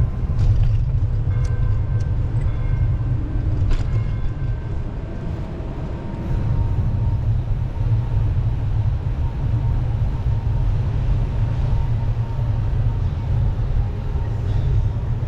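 Steady low rumble of wind buffeting the microphone while riding a bicycle, with a few faint clicks.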